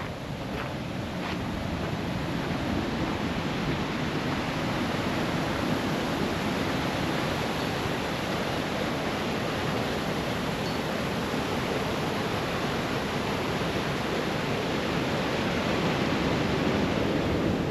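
Small waterfall spilling into a pond: a steady rush of falling water.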